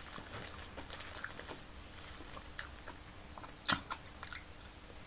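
Close-up chewing and mouth noises of a person eating canned sardines and tuna from a spoon: soft wet smacks and small clicks, with one sharper click a little past the middle.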